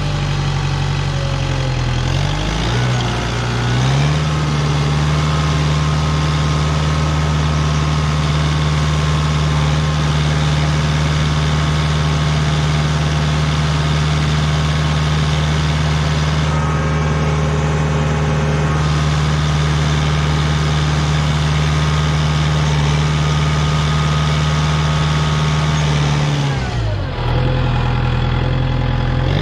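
Kubota tractor's engine running while plowing snow. It steadies at higher revs after about three seconds, holds there, then drops back near the end.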